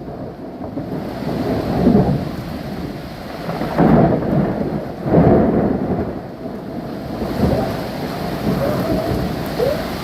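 Thunderstorm: steady rain with rolling thunder, the rumble swelling about two, four and five seconds in.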